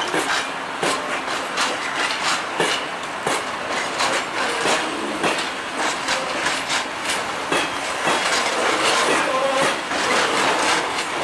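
Freight train of Talbot hopper wagons rolling past, the wheels clicking over rail joints in a steady rhythm of about one to two clicks a second, with a faint wheel squeal joining in during the last few seconds.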